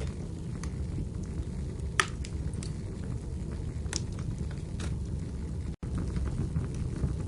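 Wood fire burning in a fireplace: a steady low rumble of the flames with scattered crackles and sharp pops, the loudest pop about two seconds in.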